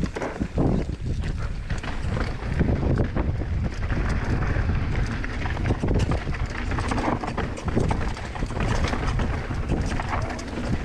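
Mountain bike rattling down a rough, rocky trail: a dense run of clicks and knocks from the tyres and bike over rock, with wind rumbling on the microphone.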